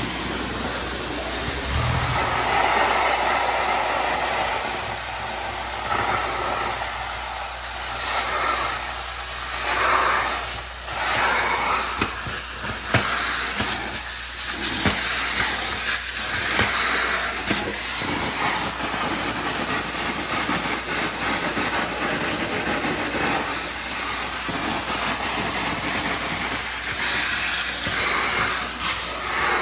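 Tile spinner cleaning tile and grout: a steady hiss of spray jets and vacuum suction that swells and fades as the tool is swept back and forth, with scattered clicks as it rides over uneven tiles.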